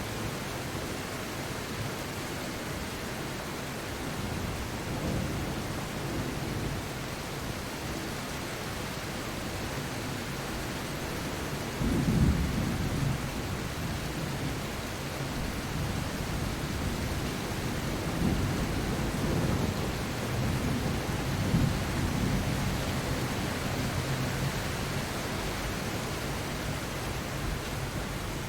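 Steady rain with several low rolls of thunder, the loudest about twelve seconds in and more rumbling in the second half.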